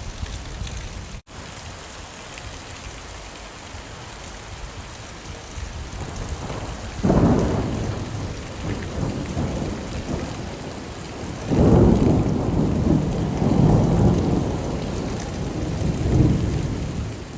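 Steady rain with thunder: a sudden roll of thunder about seven seconds in, then a second, longer rumble that swells and ebbs for several seconds, before the sound fades out at the end.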